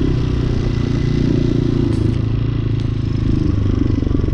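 Hawk 250 dual-sport motorcycle's single-cylinder engine running steadily while riding on the road, with road and wind noise over it.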